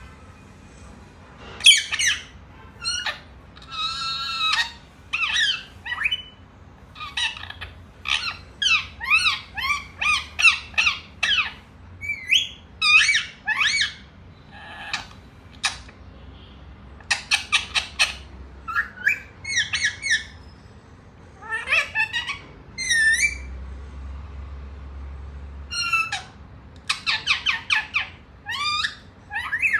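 Pet parrot squawking and chattering: a long run of short, high calls, some rising or falling in pitch, with brief pauses between them.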